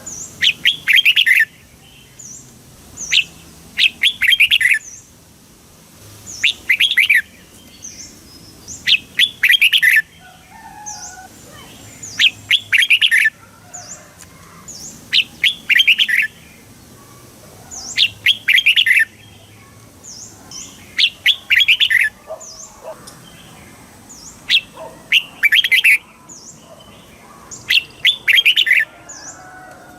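Red-whiskered bulbul singing short, quick phrases of chirping notes, about ten of them, one every three seconds or so. Fainter high, thin chirps come between the phrases.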